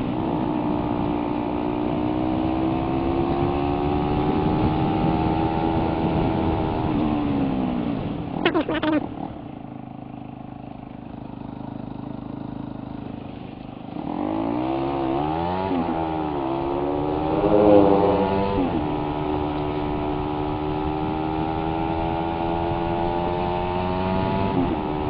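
Suzuki Raider 150's single-cylinder four-stroke engine under way at a steady cruise. About eight seconds in, the throttle closes and the engine drops to a low, quieter hum for several seconds, then revs up through a few gear changes and settles back to a steady cruise.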